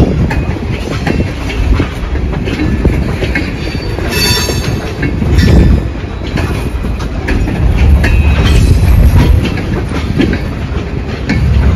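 Freight cars rolling past close by: a steady low rumble with wheels clicking over the rail joints, and a brief high wheel squeal about four seconds in.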